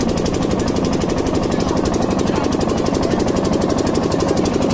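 A motorboat engine running steadily, with a rapid, even knocking beat.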